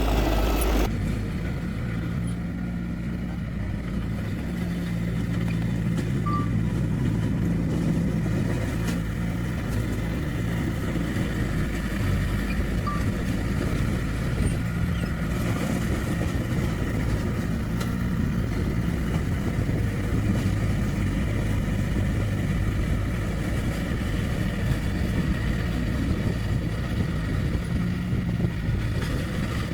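Heavy diesel engine of earthmoving machinery running steadily, a low engine sound without speech.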